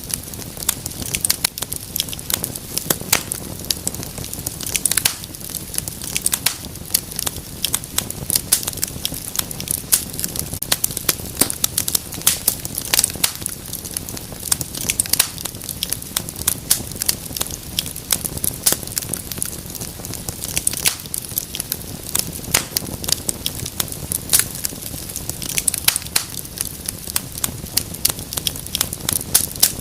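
Wood fire crackling steadily, with dense, irregular pops and snaps, several a second, over a soft low hiss.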